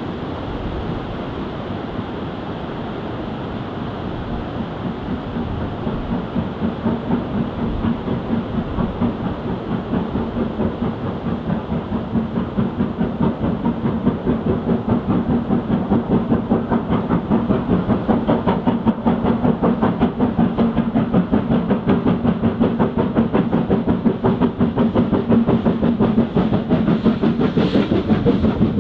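Steam locomotive working a train, its exhaust beats coming about three a second and growing louder as it approaches.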